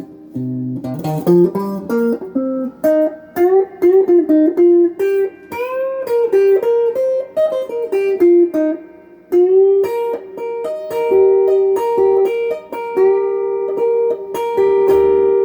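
GEARIT GI-155 electric guitar on its middle pickup, played through a Crate GX15R amp with a Golden Plexi overdrive pedal, with a little breakup. It plays a single-note blues lead line with string bends and some long held notes.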